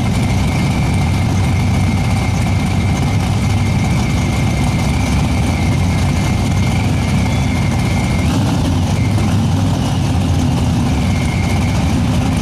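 Supercharged Fox-body Ford Mustang drag car's V8 idling steadily: a loud low rumble with a thin high whine over it that drops away for a few seconds past the middle.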